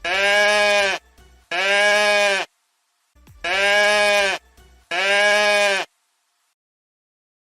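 A goat bleating four times, each call about a second long, in two pairs with a short gap inside each pair.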